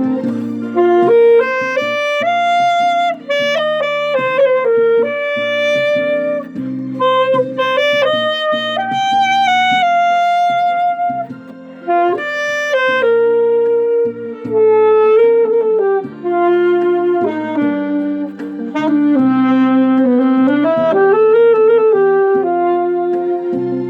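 Alto saxophone playing a slow, lyrical ballad melody in held notes with slides and vibrato-like bends, over a backing track of sustained low chords.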